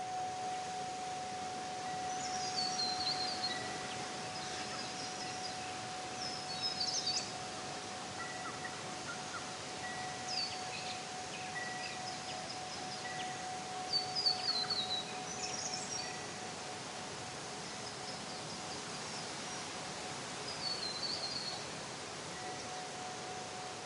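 Wind chimes ringing over a steady hiss: a held, ringing tone runs throughout, with short high falling runs of tinkling notes every few seconds.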